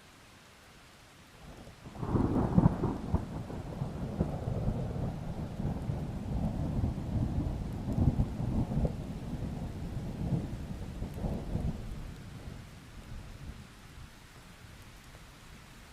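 A long roll of thunder over steady rain: it breaks in about two seconds in with a loud crackling peak, rumbles on with a second swell near the middle, and dies away over the last few seconds, leaving the rain.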